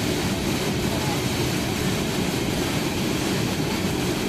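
Steady, loud rush of a waterfall pouring into its pool, a deep, even roar with no breaks.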